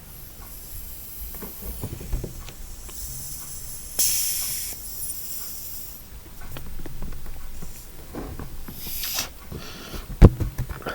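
A long rubber jet balloon being blown up by mouth: short hissing rushes of breath pushed into it, with light rubbery handling clicks. A sharp thump near the end.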